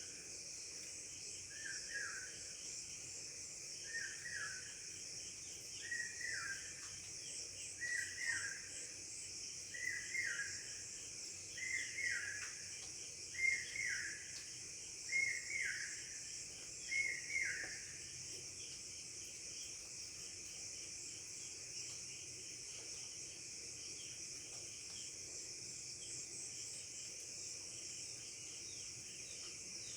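Steady high-pitched chirring of crickets or other insects, with a bird repeating a short falling call about every two seconds. The call comes about ten times, grows louder, then stops a little past halfway.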